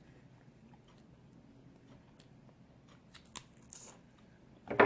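Eating snow crab legs: quiet chewing, with a few sharp clicks about three seconds in and a louder burst just before the end.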